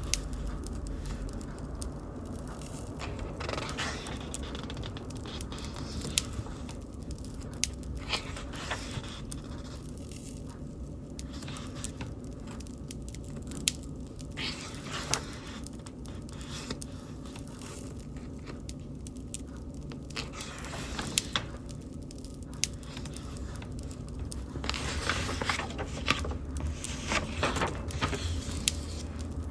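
Wood bonfire crackling, with sharp irregular pops over a steady low rumble of flames.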